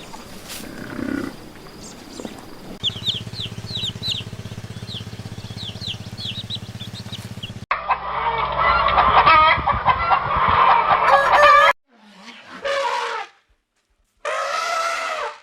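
Short animal clips cut one after another. First, small birds chirp in quick rising notes over a steady mechanical hum. Then comes a loud chorus of poultry calling and honking for about four seconds, and near the end two separate animal calls of about a second each.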